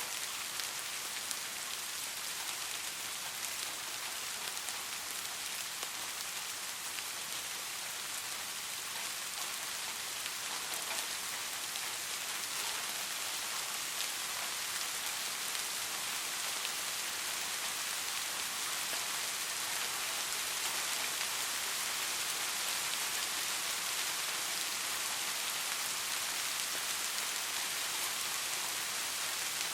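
Steady soft rain falling, an even hiss with fine patter of drops and no thunder, growing slightly louder about halfway through.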